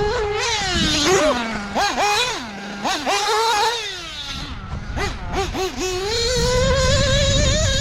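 OS Speed 21 XZ-B Ty Tessmann two-stroke nitro engine in a Mugen MBX8R 1/8-scale buggy, revving up and easing off several times in quick succession, then held at steady high revs for the last couple of seconds.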